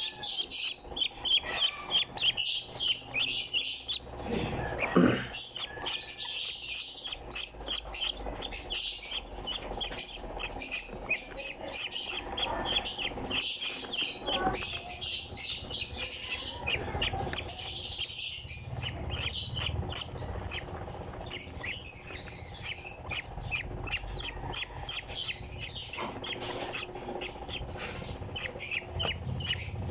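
Young hand-fed African lovebird chirping, a rapid run of short, high chirps that goes on almost without pause.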